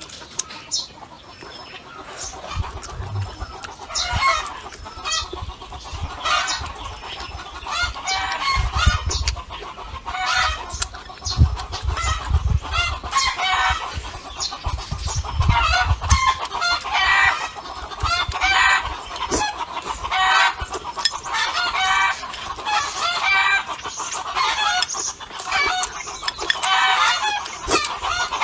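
Hens clucking and cackling over and over, the cackle a hen gives after laying an egg, with low thuds through the first half.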